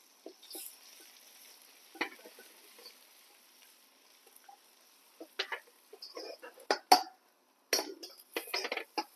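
A cooking utensil stirring food in a pan, with a faint hiss of frying and then a quick run of sharp knocks and scrapes against the pan in the second half, loudest about seven seconds in.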